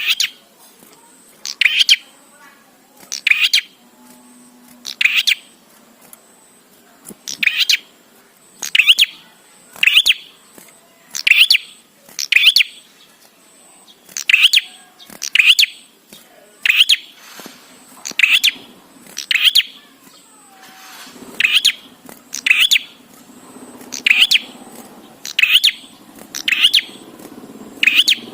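Prenjak (a prinia) giving short, sharp calls over and over at an even pace of about one every one and a half seconds, each call alike.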